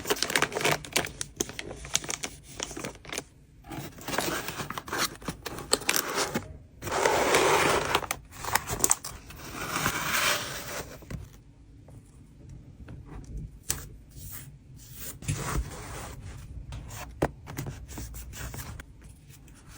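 Close-up handling sounds of trading cards being packed by hand: paper and plastic packaging rustling, scraping and crinkling, with scattered small clicks and taps. Two longer stretches of dense rustling come about seven to eleven seconds in, and the handling turns sparser and quieter after that.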